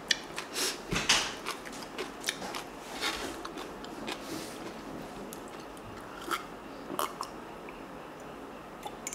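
Close-miked chewing of crunchy food such as bean sprouts and cucumber kimchi, with many crisp crunches in the first few seconds. After that come only a few scattered clicks.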